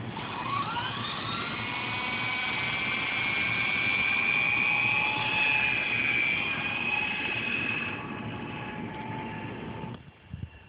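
Remote-control helicopter's motor and rotor whining as it spools up, rising in pitch over the first second or so, then holding steady. The whine eases down about eight seconds in and cuts off about ten seconds in.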